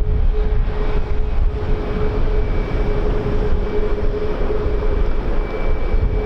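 Aircraft engines running steadily, with a constant hum and a fainter high whine, under heavy wind rumble on the microphone.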